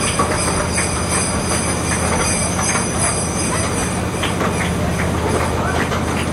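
Miniature ride-on train running along its track: a steady rumble from the train, with scattered short clicks from the wheels on the rails.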